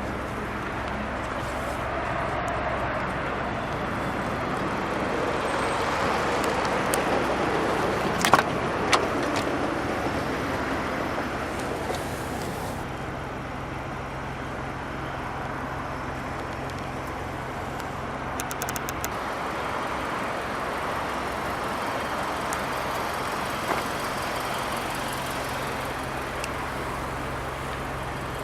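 Road traffic passing, swelling and fading twice, over a steady low hum, with a few sharp clicks near the middle.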